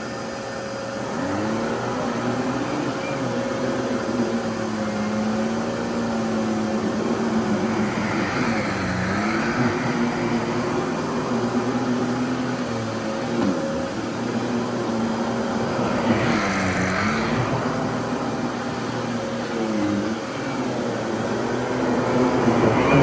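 Fantom Lightning vacuum cleaner running, its motor humming steadily with a hissing rush of air; several times the pitch dips briefly and then recovers.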